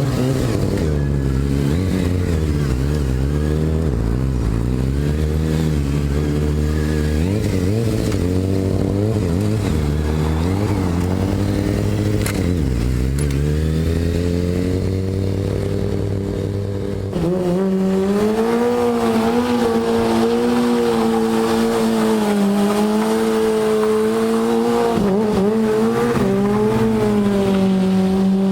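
Sportbike engine revving up and down in repeated swells of pitch. About two-thirds of the way through, the sound cuts to a higher engine note held fairly steady with small wavers.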